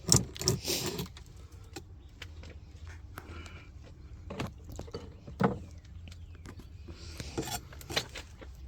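Wooden beehive frames and hive parts being handled: scattered clicks and knocks, with a stretch of scraping at the start and another shortly before the end.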